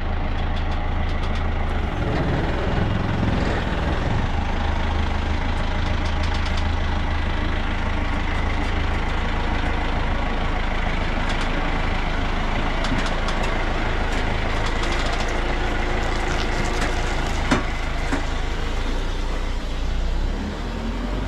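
Scania lorry's diesel engine running steadily with a deep hum, and a few light clicks and knocks over it.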